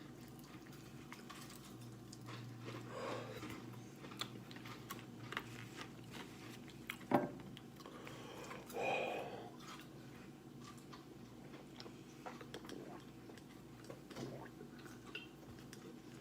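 Faint chewing and biting into breaded fried chicken wings: scattered small clicks and crunches, with a sharper click about seven seconds in.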